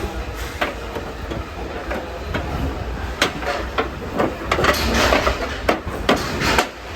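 Irregular metal knocks and clanks, densest about halfway through, over a steady low machine rumble.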